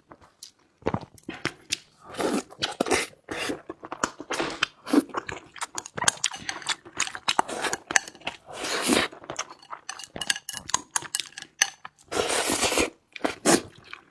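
Close-miked eating: chewing and biting on meat with rice, with frequent sharp clinks of utensils against dishes.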